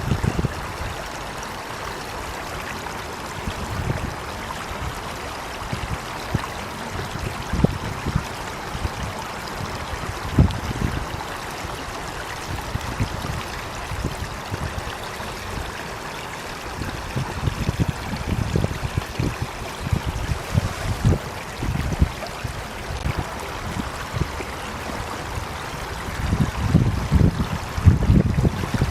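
Water flowing steadily with an even rush, broken by irregular low thumps that grow busier near the end.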